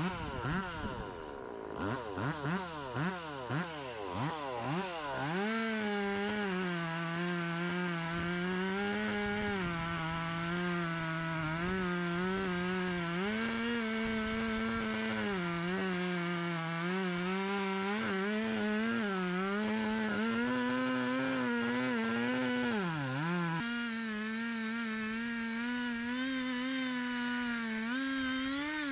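Big gas chainsaw revved in quick blips for the first few seconds, then held at high throttle, its pitch sagging and recovering again and again as the chain bogs under load in the wood.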